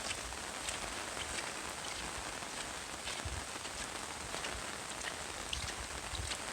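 Steady rain falling as an even hiss, with single drops tapping sharply at irregular moments. A few low thuds come about three seconds in and again near the end.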